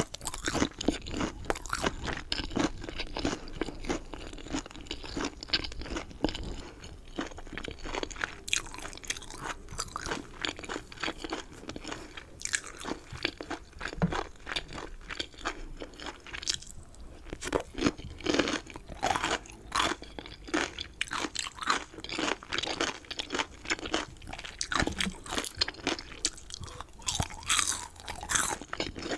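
Close-miked chewing of chicken: a steady run of crisp crunches and wet chewing clicks, with no pause.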